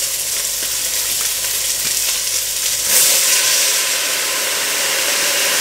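Rabbit pieces sizzling steadily in hot olive oil in an enamelled pot. About three seconds in, red wine is poured in to deglaze the pan, and the sizzle jumps suddenly louder and stays up.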